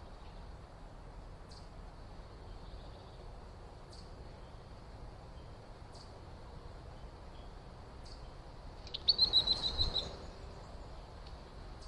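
A bird calls a quick run of about seven sharp, evenly spaced notes about nine seconds in. Underneath runs a faint steady high hum with a faint tick about every two seconds.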